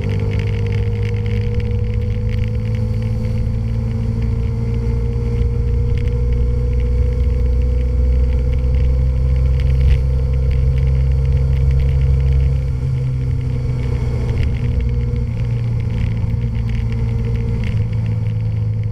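Honda Varadero's V-twin engine running at a steady cruise, picked up by a camera mounted on the motorcycle. About two-thirds of the way through the engine note eases off and stays lower, as the throttle is rolled back.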